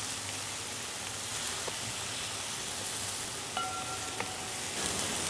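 Sliced shallots sizzling in hot oil in a metal pan, a steady hiss, while a wooden spatula stirs them, with a few light clinks against the pan in the second half.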